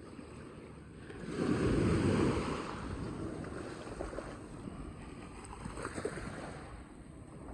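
Sea waves washing onto the shore, with wind buffeting the microphone; the noise swells louder for a second or so about a second and a half in.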